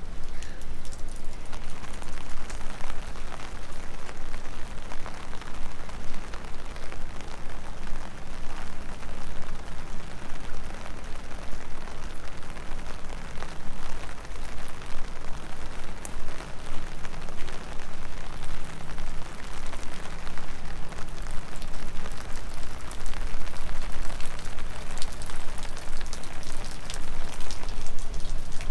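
Rain falling steadily, with many close individual drops ticking sharply, growing a little heavier near the end.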